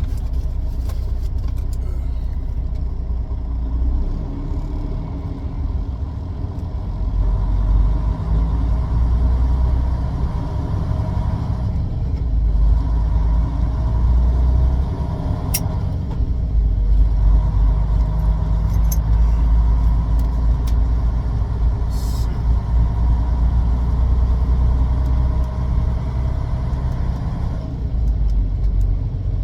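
Steady low vehicle rumble, engine and road noise, that swells and eases slightly, with a single sharp click about halfway through.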